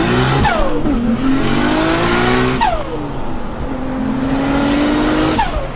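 Built single-turbo RB26 straight-six of an R32 Nissan Skyline GT-R accelerating hard, heard from inside the cabin. The revs climb through a gear with a loud rushing hiss over the engine, fall sharply at a shift about two and a half seconds in, then climb again until another shift near the end.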